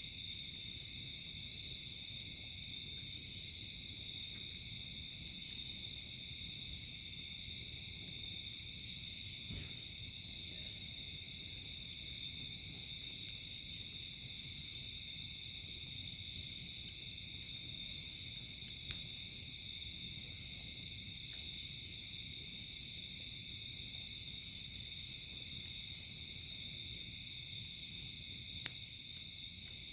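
A steady, high insect chorus, with a louder high buzz joining in about every six seconds. Two single sharp pops from the campfire come late on.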